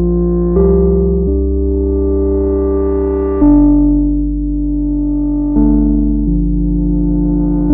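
Moog Subharmonicon analog synthesizer playing a slow ambient sequence: sustained chords over a deep bass, each new chord swelling in with a soft attack every one to two seconds.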